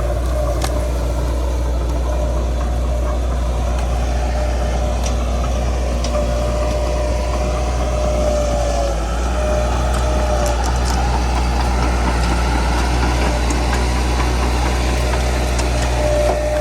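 Bulldozer's diesel engine running steadily with a deep drone, and a thin whine that comes and goes over it.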